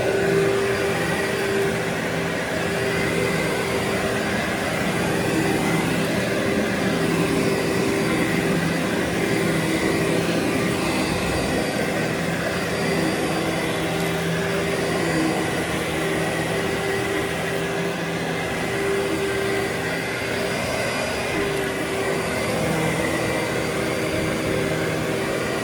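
Vacuum cleaner running steadily on carpet, its motor whining at a constant pitch.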